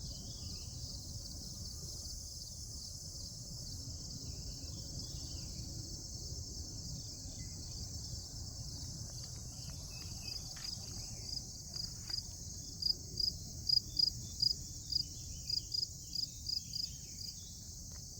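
Steady high-pitched chorus of crickets and other insects, with a low rumble beneath. Past the middle a closer insect chirps louder in a steady rhythm, about two to three chirps a second, stopping near the end.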